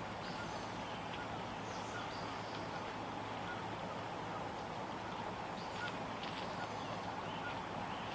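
Steady rain noise with short, high bird chirps scattered throughout.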